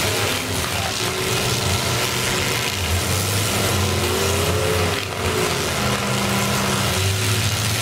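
Several demolition derby cars' engines running and revving at once, their pitch rising and falling.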